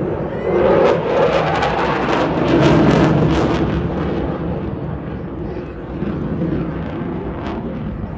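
Eurofighter Typhoon's twin EJ200 jet engines as the fast jet passes: a loud rush of jet noise that builds to a peak about three seconds in, then slowly fades.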